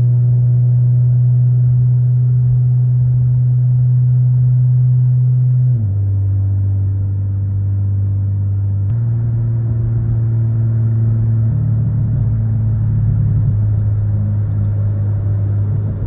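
A car's engine and exhaust droning steadily while driving, heard from inside the cabin. The pitch drops about six seconds in, rises again about three seconds later, and the drone turns rougher a little past the middle.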